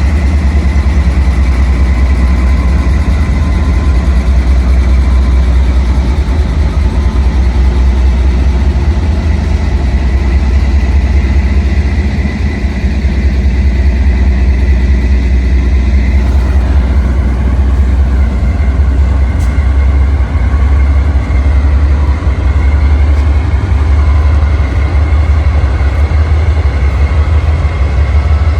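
Train rolling past at close range: a loud, steady heavy rumble with a thin, steady high ringing tone over it.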